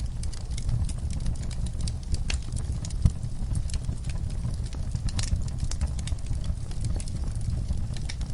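Wood fire burning in a fireplace: a steady low rumble of flames with irregular crackles and pops, one louder pop about three seconds in.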